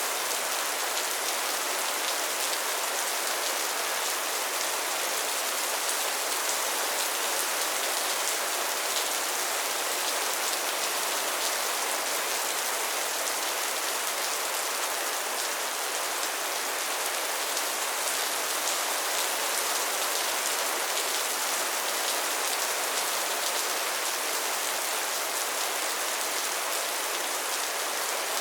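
Steady rainfall, an even hiss of many drops landing on a surface, with no change in strength.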